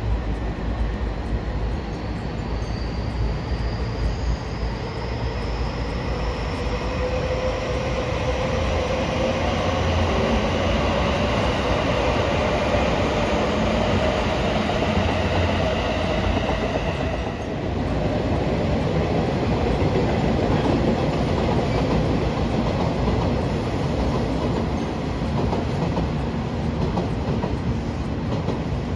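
Train running by, with a whine that rises slowly in pitch as it gathers speed and stops a little over halfway through, over steady rolling noise.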